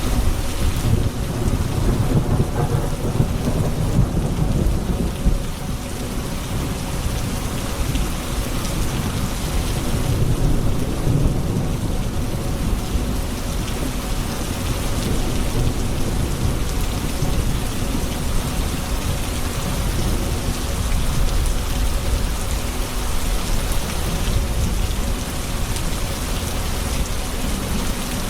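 Thunderstorm: steady heavy rain with rolling thunder rumbling low underneath, swelling in the first few seconds and again about ten seconds in.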